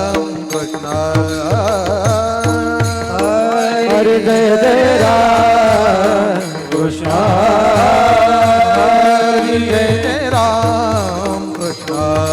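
Devotional kirtan singing: a singer's drawn-out, ornamented melodic line over steady held accompaniment tones, with a drum keeping a regular beat.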